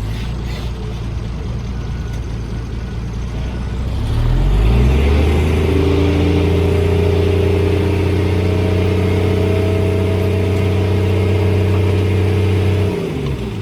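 Heavy-equipment diesel engine running at low revs, then revving up about four seconds in and holding high revs under load for several seconds before dropping back near the end.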